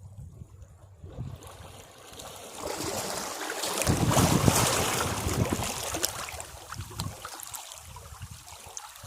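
Sea waves breaking on rocks: a wave surges up about a second in, crashes loudest around four seconds in, then washes back and fades.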